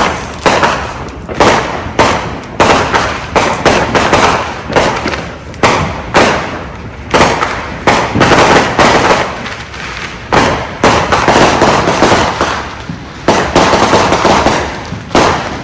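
Consumer fireworks going off after the fuse is lit: a fast, irregular series of loud bangs, about two a second, with crackling between them.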